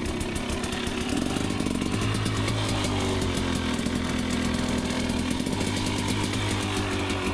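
Two-stroke dirt bike engine running at low, fairly steady revs, with a buzzy, chainsaw-like note.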